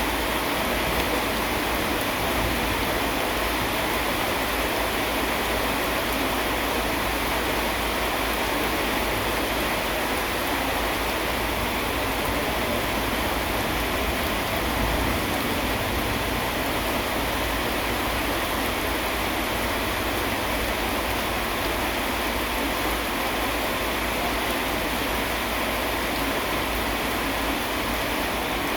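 Steady rain falling, an even hiss that holds at one level with no thunderclaps.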